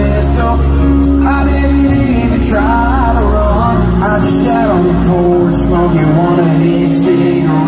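Live country music: a singer's voice over a full band with a steady bass line.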